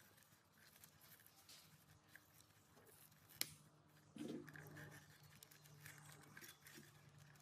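Near silence with faint scattered taps and clicks, one sharper click about three and a half seconds in, and a faint low hum setting in about four seconds in.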